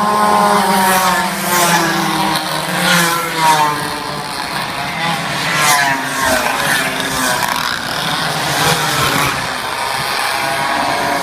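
Several minibike engines revving high during a race, their pitches overlapping and repeatedly rising and falling as the bikes accelerate, shift and pass.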